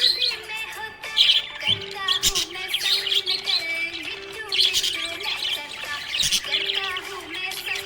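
Budgerigars chirping and warbling, a continuous run of fast, twittering chatter.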